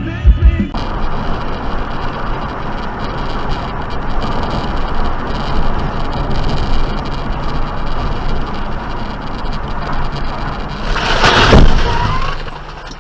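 Car and road traffic noise runs steadily, then near the end a loud swelling burst of noise rises and dies away, like a vehicle collision or a heavy vehicle rushing past.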